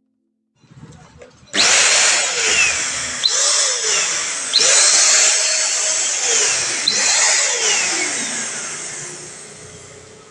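A small high-speed electric motor starting up about a second and a half in and running loud, its pitch swinging up and down several times, then slowly fading away near the end.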